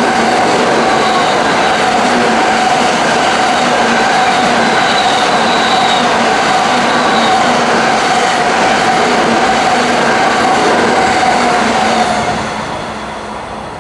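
An N700 series Shinkansen train running past along the station platform: a steady rush of wheels and air with a steady whine over it, which fades as the last car goes by about twelve seconds in.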